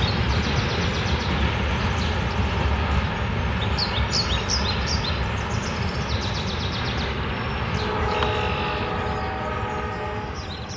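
Train passing close by: a steady low rumble and rattle of wheels on rail with short high clicks, joined from about eight seconds in by a held ringing of several pitches, and easing off near the end.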